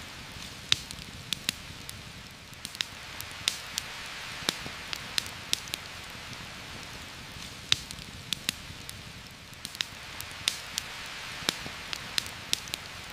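Steady rain hiss with frequent sharp, irregular pops and crackles from a campfire.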